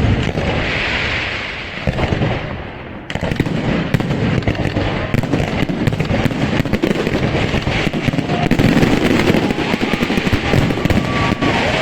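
Professional fireworks display: a dense, continuous barrage of aerial shell bursts and crackling, with a brief lull about three seconds in before it thickens again.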